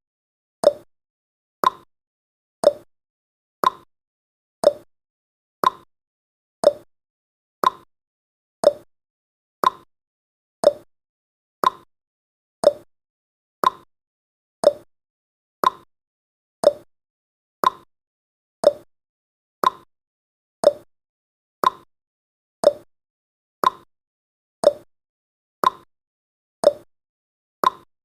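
Countdown timer's clock-tick sound effect: a short, sharp tick once every second, steady and evenly spaced.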